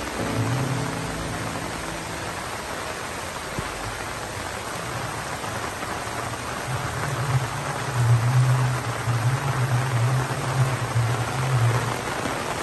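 Steady rain falling on garden trees and leaves, an even hiss throughout. Background music plays underneath, with a few held notes in the first couple of seconds and a strong low bass tone from about seven seconds in.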